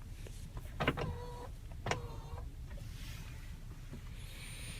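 Power tilt-and-telescopic steering column motor whining in short bursts as the wheel is moved: two brief whines about a second apart, then a fainter whir.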